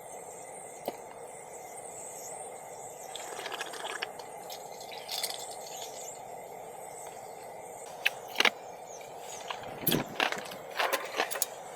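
A few light clinks and knocks from handling cups and breakfast things, over a steady low hiss.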